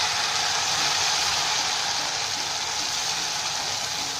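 Tomato paste sizzling in hot oil with fried onions in a cooking pan, a steady hiss that eases slightly near the end.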